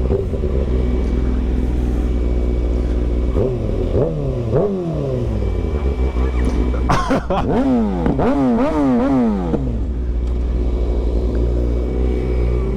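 A vehicle engine idling, revved twice about four seconds in, then blipped rapidly several times in a row from about seven to nine and a half seconds in.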